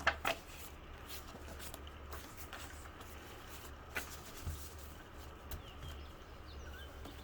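Tarot cards being handled and drawn: a few soft snaps and taps, two just at the start and one about four seconds in, over a low steady hum.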